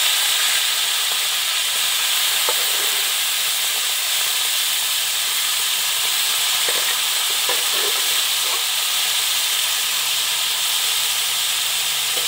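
Pork sizzling steadily as it fries in hot oil in a wok with garlic and onion. A metal ladle stirring and scraping against the pan gives a few short clicks, once about two seconds in and several more past the middle.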